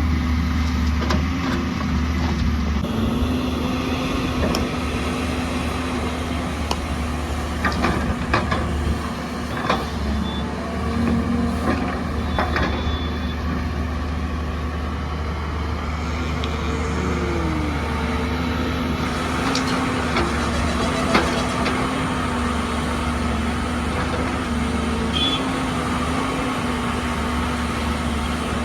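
Heavy diesel engine running steadily, with scattered clanks and knocks, most of them in a cluster a third of the way in and again about two-thirds of the way in.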